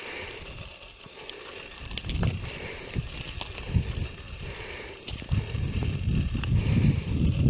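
Wind buffeting the microphone as a fluctuating low rumble that grows stronger after about five seconds, with a few faint scattered clicks.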